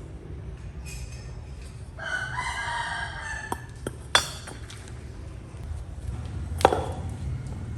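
A rooster crowing once, a call of about a second and a half starting about two seconds in. Several sharp knocks follow, with the loudest one near the end, over a steady low hum.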